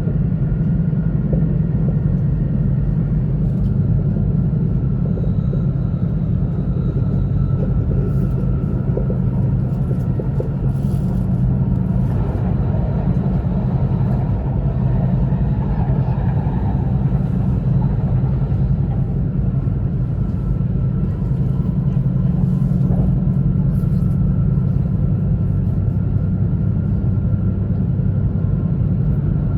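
E2 series Shinkansen train running steadily, heard inside the passenger cabin: a constant low rumble of the running gear with a faint steady high tone above it.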